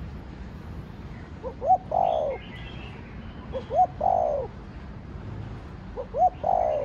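Spotted dove cooing its call three times, about two seconds apart: two short notes, the second rising and falling, then a longer falling coo.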